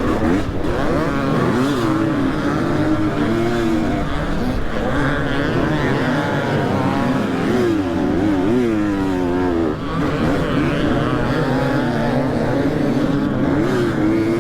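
Dirt bike engine revving up and down again and again under throttle during hard enduro riding, its pitch rising and falling every second or two.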